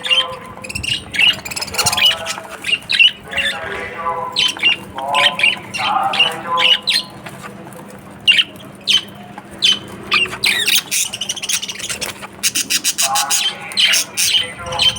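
Budgerigars chattering and squawking, with many short overlapping calls and a rapid run of clicking chatter near the end.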